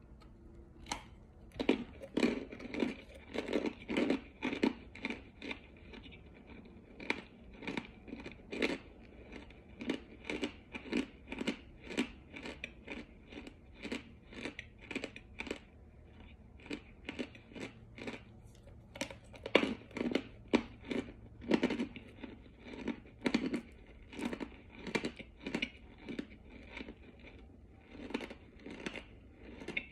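Close-up chewing and crunching of compressed cornstarch chunks: a steady run of short, crisp crunches, about two a second.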